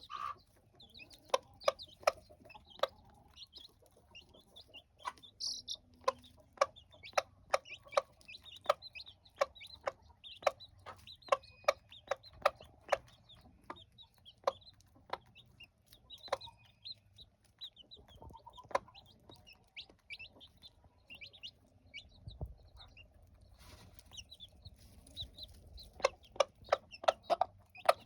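A hen clucking while chicks peep high and brief, over a steady run of short sharp taps about one or two a second that come faster near the end.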